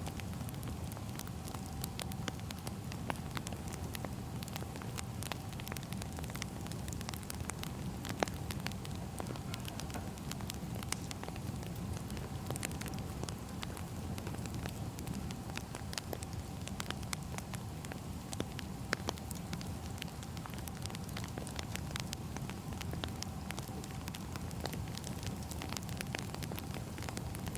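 Wood fire burning, with a steady low rumble and frequent small crackles and pops of the firewood throughout.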